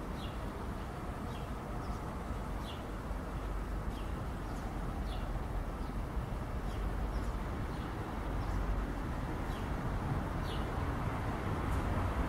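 Steady low rumble of a locomotive-hauled passenger train's coaches rolling along the track, growing a little louder near the end. A bird chirps again and again above it, about once a second.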